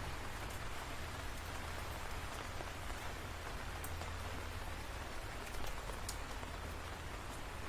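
Steady rain falling, an even hiss with a few sharp drop ticks scattered through it and a steady low rumble underneath.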